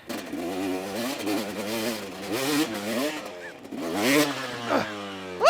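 KTM 250SX two-stroke dirt bike engine revving unevenly, its pitch rising and falling with repeated throttle blips as the rider struggles on a steep hill climb. Near the end it climbs in one sharp, loud rev.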